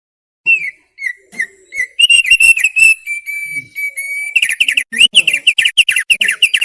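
Thick-billed opior (thick-billed white-eye) singing: a few clear whistled notes, then a quick chattering run and a held note, ending in a fast string of short falling whistles.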